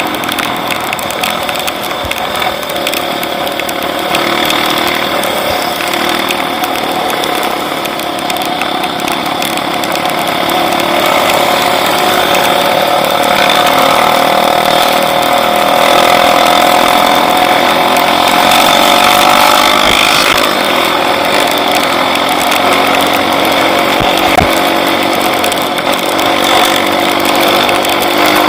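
A small engine running loudly and steadily, its pitch drifting up and down.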